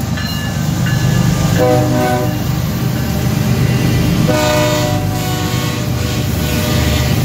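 Diesel freight locomotives passing close by at about 23 mph, their engines running with a steady low rumble. The air horn sounds two short blasts, about one and a half seconds in and again about four seconds in.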